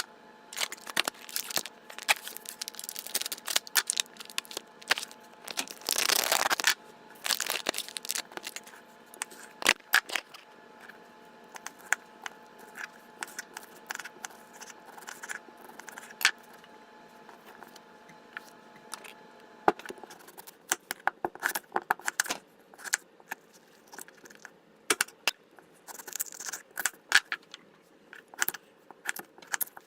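Kitchen food-preparation sounds: many scattered clicks, knocks and scrapes of utensils and ingredients being handled. A louder rushing noise lasts about a second, around six seconds in.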